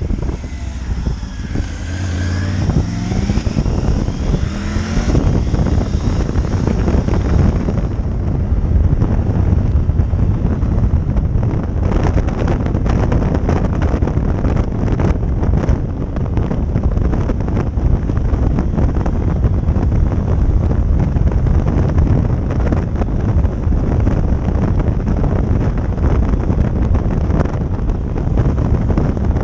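Motorcycle engine accelerating, its pitch rising over the first few seconds, then steady riding at speed with heavy wind buffeting on the microphone over the engine and road noise.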